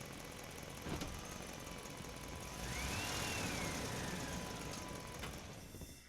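Toy fire truck's electronic sound effect: a steady engine-like rumble with a click about a second in, and a single rising-then-falling whistle tone in the middle. It cuts off abruptly just before the end.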